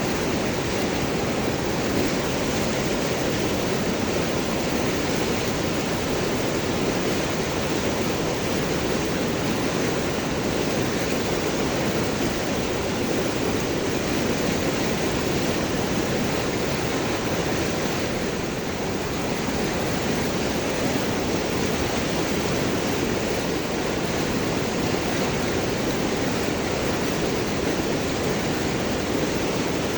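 River water rushing and gurgling over and around large rocks, a steady, even flow.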